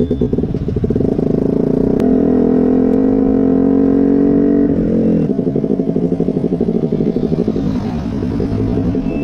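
KTM 125 motorcycle's single-cylinder engine through an Akrapovic exhaust, idling with a lumpy pulse, then revved up about a second in and held steady for a few seconds before dropping back to idle.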